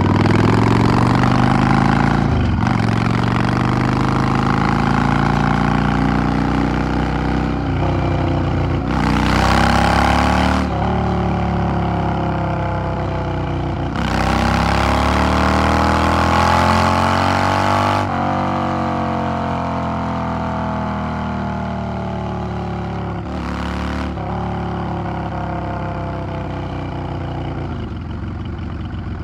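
Yamaha XVS 650's air-cooled V-twin under way. Its pitch climbs through the gears, with short breaks at the shifts and two louder rushes of noise while accelerating. In the second half the pitch falls steadily as the bike slows.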